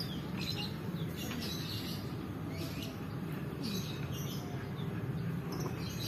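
Small birds chirping in short bursts, about one every second or so, over a steady low background rumble.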